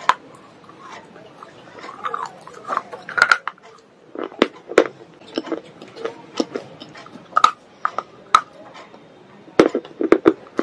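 Close-miked crunchy biting and chewing of baked clay pipe pieces: irregular sharp cracks, several clustered near the end.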